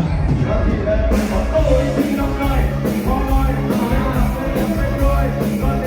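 Live band playing a rock song, with a sung vocal over bass and drums and a steady beat of about two drum strokes a second.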